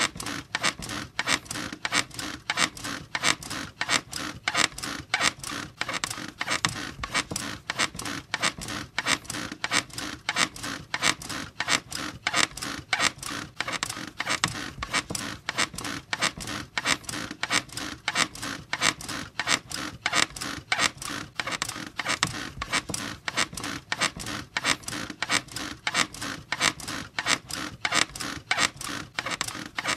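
Bed squeaking over and over in a steady, quick rhythm.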